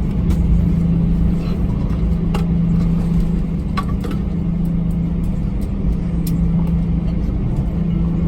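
Airbus A321 cabin noise with the engines running: a steady hum with a strong low tone over a deep rumble, and a few faint clicks and rattles scattered through it.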